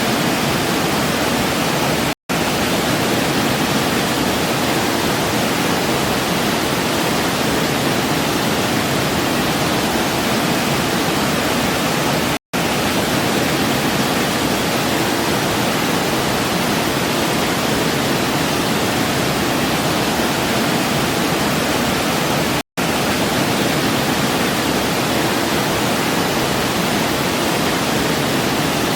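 Waterfall rushing in a steady, even roar of falling water. Three times, about ten seconds apart, it cuts out to silence for a split second.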